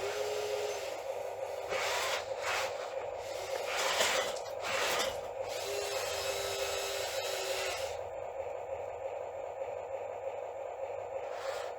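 Small electric motors of a radio-controlled model excavator whining steadily, with brief rubbing and scraping sounds a few seconds in; the high hiss drops away about eight seconds in.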